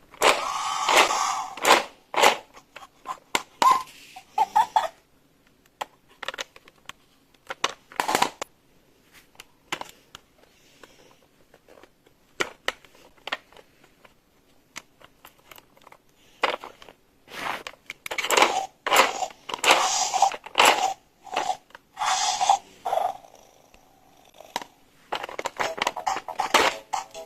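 Plastic toy pieces and packaging being handled: irregular clicks, taps and rustling, busiest about a second in and again in the second half.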